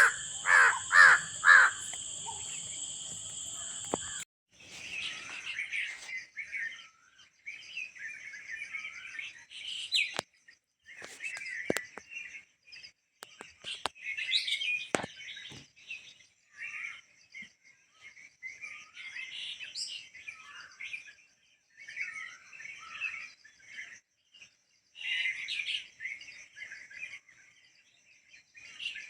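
A crow cawing a few times over a steady high buzz, then an abrupt switch at about four seconds to small songbirds chirping and twittering in repeated short phrases, with a thin steady high buzz behind them.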